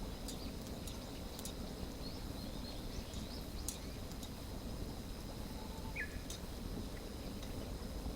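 Wood campfire crackling with sparse faint pops over a steady low outdoor rumble, with a thin steady high insect-like tone and a few faint bird chirps, one short chirp about six seconds in.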